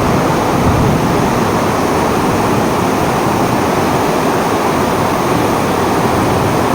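A storm's heavy rain and wind, making a steady, loud rushing noise without a break.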